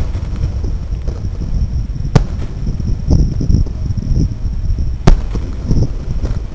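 Fireworks display going off: a steady rumble of booming aerial shells, with two sharp loud bangs about three seconds apart.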